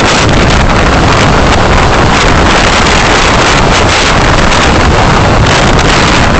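Steady, loud rushing wind and road noise from a moving car, picked up by a dashcam microphone.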